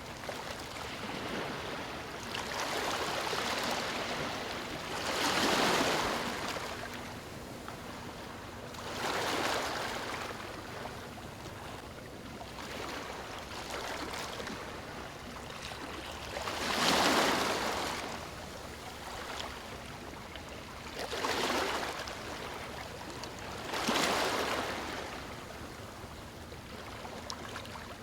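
Waves breaking on a stony shore: a steady wash of water noise with a louder surge every few seconds as each wave comes in, swelling and falling away.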